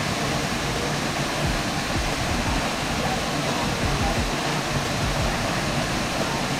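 Steady, loud rush of a tall waterfall's water pouring down.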